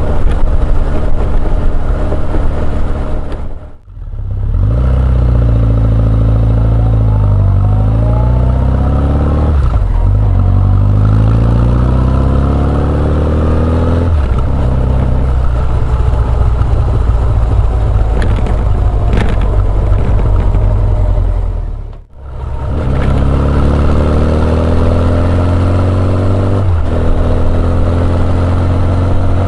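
Honda CB1100EX's air-cooled inline-four running through an Earl's Gear Wyvern Classic muffler, heard onboard as the bike accelerates through the gears, its pitch climbing and then dropping back at each shift. The sound fades out briefly and returns twice, once a few seconds in and again about three-quarters of the way through.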